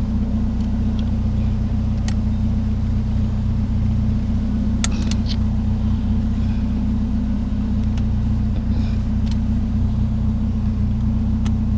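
A vehicle engine idling steadily, a low even hum, with a few sharp clicks and knocks scattered over it, a cluster about five seconds in.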